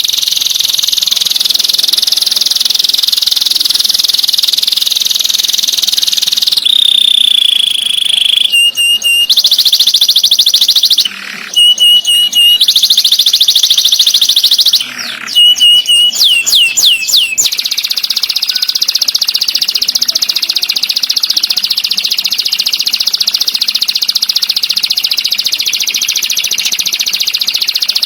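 Songbird song: a continuous, very fast, high-pitched rolling trill. It breaks partway through into short runs of repeated piping notes and a string of quick falling sweeps, then the rapid trill resumes.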